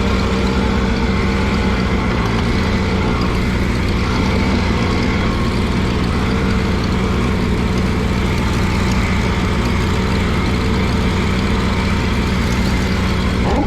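Allis-Chalmers G tractor's small four-cylinder engine running steadily with the cultivator raised.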